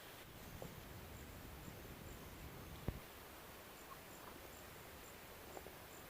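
Near silence: faint outdoor ambience with a soft high-pitched chirp repeating about twice a second and one short click about halfway through.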